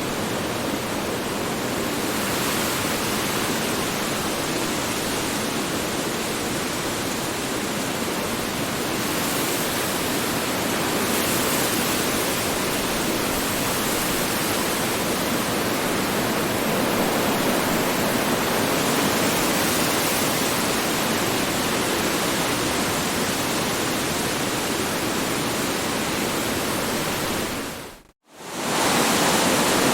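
Strong wind blowing as a steady, full rushing noise that swells slightly now and then. Near the end it fades out to silence for a moment and comes straight back.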